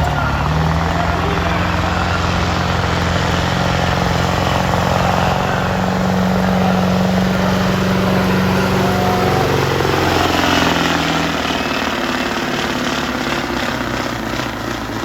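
Semi truck's diesel engine running hard at high revs under load as it pulls the sled, its pitch holding steady and then dropping after about eleven seconds as the driver backs off.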